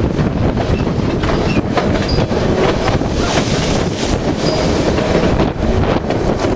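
White Pass & Yukon Route narrow-gauge train running on the rails: a steady loud rumble with wheel clatter and a few brief, faint squeals from the wheels.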